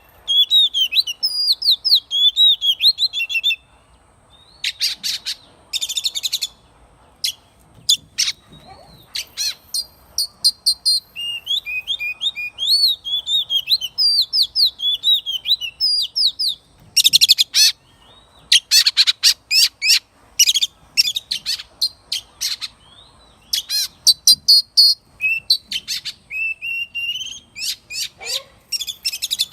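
Oriental magpie-robin singing: varied, sweet whistled phrases that rise and fall, interrupted several times by quick runs of harsh, scratchy notes, with short pauses between phrases.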